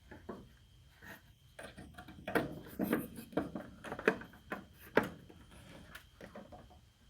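Irregular light clicks, taps and rubbing of hands handling small parts while fitting a tail light's wiring and hardware, with a few sharper knocks in the middle.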